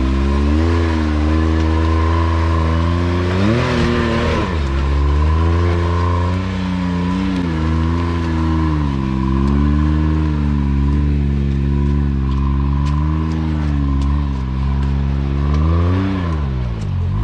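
Side-by-side UTV engine running under load on a rock climb, its pitch wavering up and down, revved hard twice: about four seconds in and again near the end.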